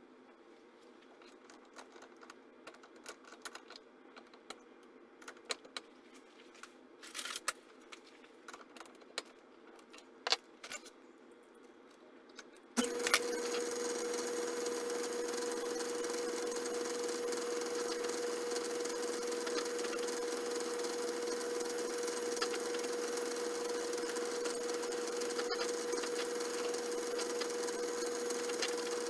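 Scattered light clicks and taps of tools and metal parts being handled, then about halfway through a small machine tool switches on and its motor runs steadily with a constant tone.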